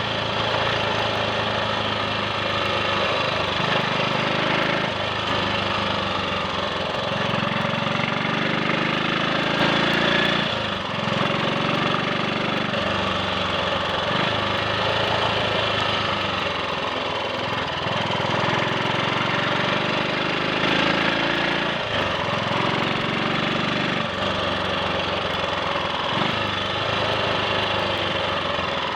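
Triumph Sports Cub's 199 cc single-cylinder four-stroke motorcycle engine running under way, its pitch climbing and then dropping back every two to three seconds as the revs rise and fall. It runs without misfiring or cutting out.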